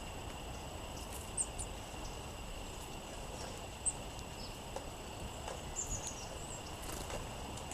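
Short high chip notes from small songbirds, a few scattered singly with a quick run of them about six seconds in, over a steady low rush of wind.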